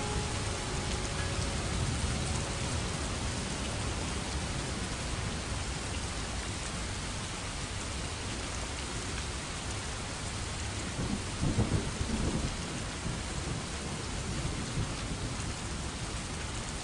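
Steady rain falling, with a low roll of thunder rumbling about eleven seconds in.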